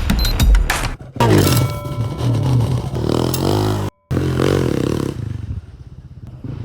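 Motorcycle engine running and revving up and down, as picked up by the bike's dash camera, in short clips joined by hard cuts. It drops out briefly near the middle and is quieter near the end. Drum music plays in the first second.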